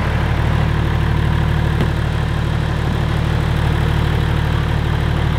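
BMW E46 330d's inline-six diesel engine idling steadily with a regular low pulse.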